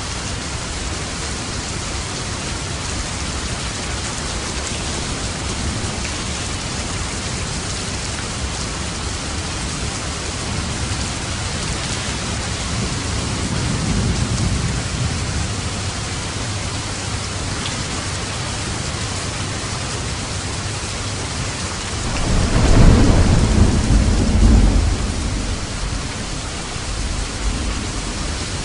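Steady rain falling, with a soft roll of thunder about halfway through and a louder, deeper rumble of thunder near the end that lasts about three seconds.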